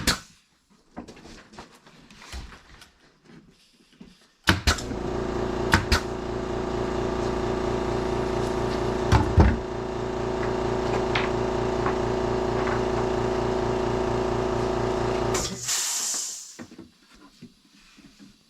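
A motor-driven machine starts suddenly and runs steadily for about eleven seconds with a few sharp knocks over it, then cuts off. A short hiss follows.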